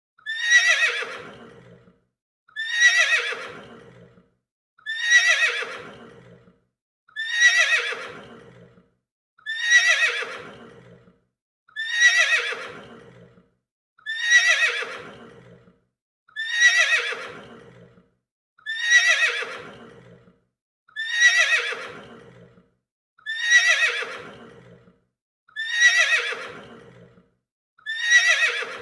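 Horse neighing: the same short neigh repeated about every two seconds, each one starting loud and fading out, falling slightly in pitch.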